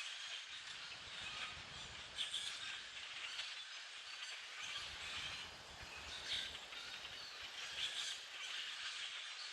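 A large flock of common grackles calling together: a dense, continuous chatter of many overlapping calls, a few standing out louder. A low rumble runs underneath for much of the time.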